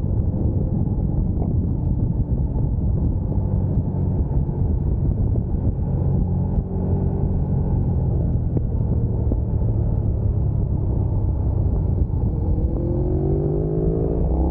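Sport motorcycle engine running steadily under way, with a heavy low rumble; near the end its pitch rises as it accelerates.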